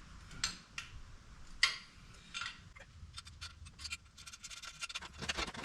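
Hand tools clicking and clinking on steel parts of a transmission jack while 14 mm bolts are tightened: a few separate clinks, then a quicker run of clicks over the last couple of seconds.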